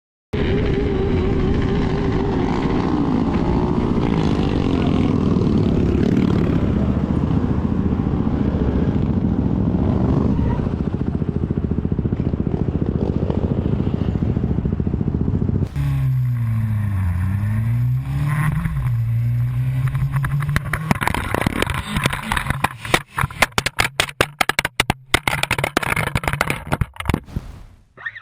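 Motorcycle on the road with heavy wind noise over the engine. After a sudden change about halfway, the engine revs fall and rise twice. In the last third come rapid clattering and knocking.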